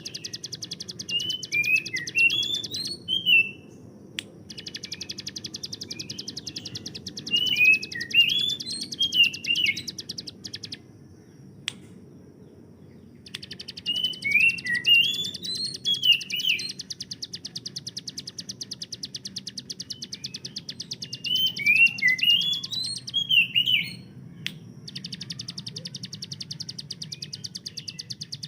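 Ciblek gunung, a prinia, singing a very rapid rattle of repeated notes with quick rising and falling whistled notes mixed in. The song comes in long phrases broken by short pauses, over a faint steady low hum.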